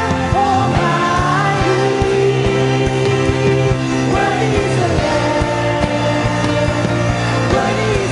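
Worship music from a band: a singing voice over steady bass notes and a regular drum beat.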